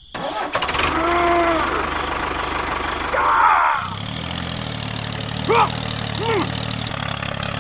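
A small engine running, settling into a steady idle about four seconds in. Short voiced cries and yelps sound over it.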